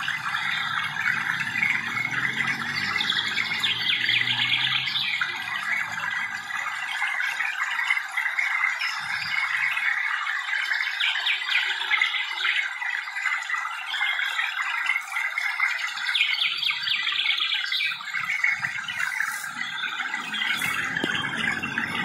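A dense chorus of small garden birds chirping and twittering continuously, over a steady hiss.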